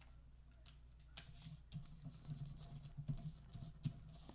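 Sheet of printer paper rustling and scraping as it is folded and creased by hand, with a few sharp crinkles.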